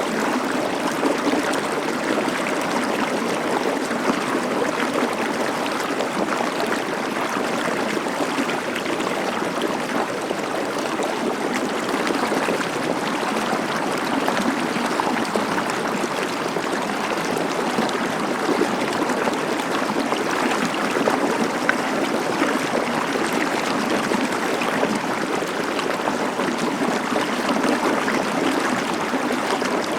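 A stream of water flowing steadily, an even unbroken rush.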